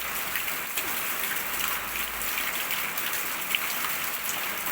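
Steady rain falling and pattering on surfaces, a continuous hiss with scattered small drip and splash ticks.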